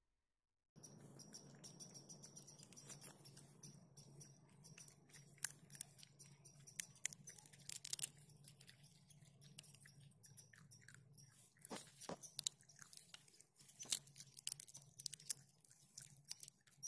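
Raccoon chewing peanuts in the shell close up: an irregular run of sharp cracking crunches over a low steady hum, starting just under a second in.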